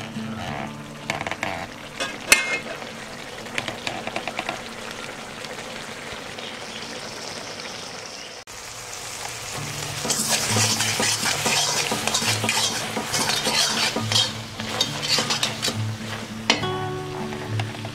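Squid pieces frying in masala in a wok, stirred with a metal spatula: steady sizzling with spatula scrapes and clicks against the pan. The sizzle breaks off briefly partway through and comes back louder from about ten seconds in.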